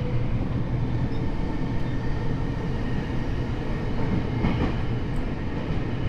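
Tokyo Metro 7000 series subway car with Hitachi IGBT inverter-driven traction motors running between stations, heard from inside the car: a steady low rumble of wheels and running gear with faint steady tones above it.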